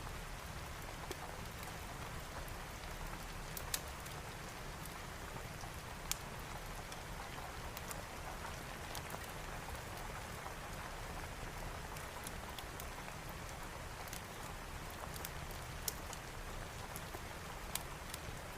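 Steady rain falling, with a wood fire crackling and a few sharp pops standing out now and then.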